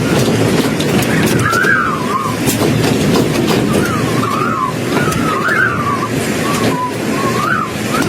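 Windstorm noise: a loud, dense rushing roar with scattered sharp hits, and a thin high tone that rises and falls over and over.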